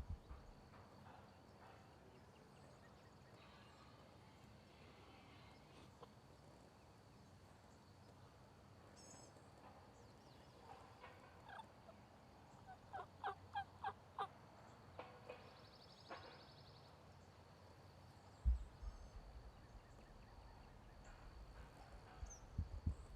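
Wild turkey calling in a quiet woodland: a run of about six quick notes, about four a second, a little after halfway through, with a few scattered notes before them. A single low thump comes a few seconds later.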